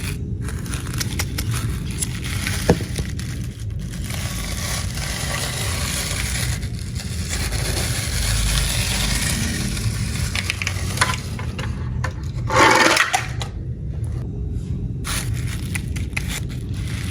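Toy cars scraping and clattering, with scattered clicks and a louder rush of noise about three-quarters of the way through.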